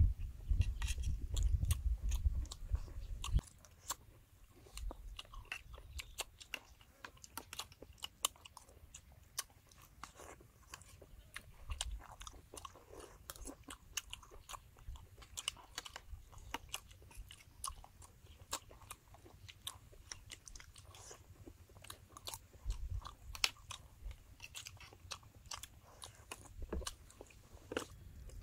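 Close-miked eating of balut with a raw garlic and chili salad: wet chewing, biting and crunching, mixed with many irregular sharp clicks. A low rumble sits under the first three seconds or so.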